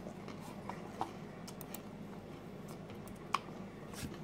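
A person chewing a mouthful of pizza: quiet mouth sounds with a few short sharp clicks, the loudest a little past three seconds in, over a faint room hum.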